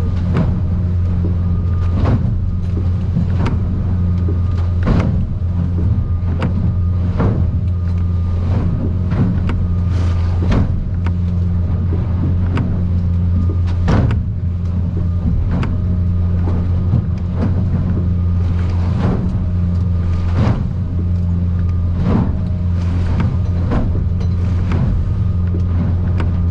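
Outboard motor running steadily under way, heard from inside the boat's cabin. Over it come frequent irregular knocks and slaps as the aluminium hull pounds through rough water and swells.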